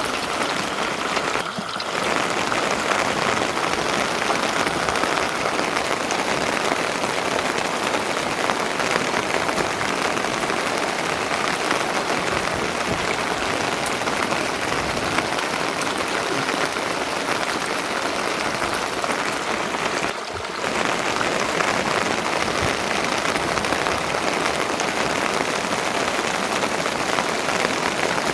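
Steady, fairly loud rain falling, a dense hiss made up of many small drop impacts.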